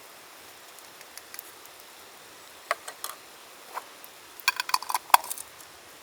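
Small hard objects being handled, clinking and tapping: a few scattered taps, then a quick flurry of clinks about four and a half seconds in, the loudest just after five seconds.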